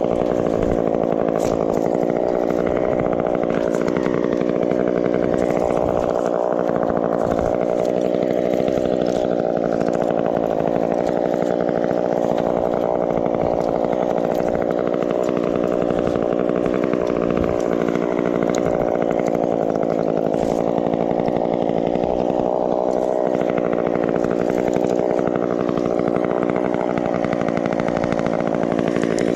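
Chainsaw running steadily at high revs while cutting through a tree, its pitch wavering slightly as the chain bites.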